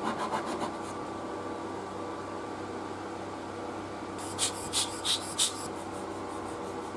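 Short scraping strokes over a steady hum: a few near the start, then a quick run of about five, the loudest, about four to five and a half seconds in.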